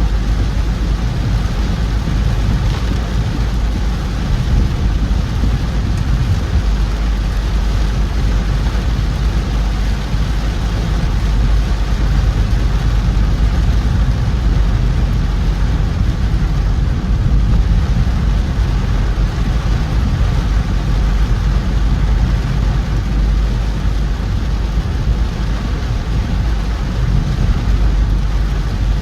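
A car driving through heavy rain: a steady low rumble of engine and tyres on the wet road, with an even hiss of rain over it.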